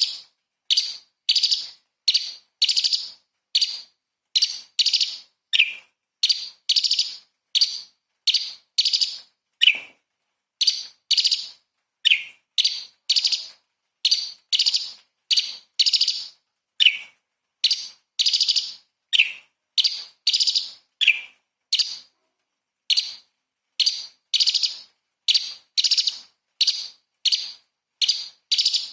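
Cucak cungkok, a leafbird, singing in short, sharp notes, about two a second with brief pauses, some of them dropping lower in pitch.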